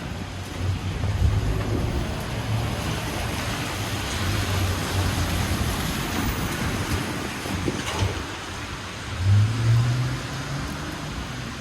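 City traffic on a wet street in the rain: car tyres hissing on the wet road with engines running low. One louder vehicle accelerates past about nine seconds in.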